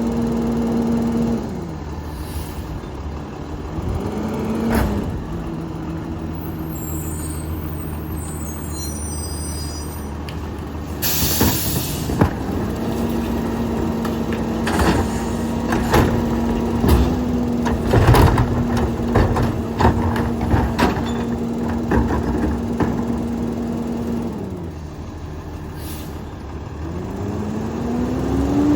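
Peterbilt 348 rear-loader garbage truck's diesel engine speeding up and dropping back to idle several times as the hydraulic packer cycles through a load of trash. There is a loud air-brake hiss about 11 s in and a run of metal clanks from the packer and cans in the middle.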